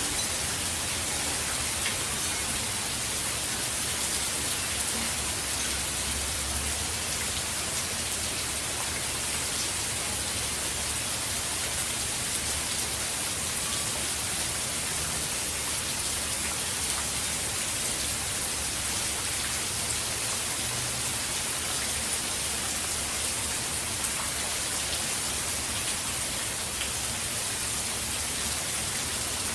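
Steady hurricane rain falling, a constant even hiss with faint scattered drop ticks.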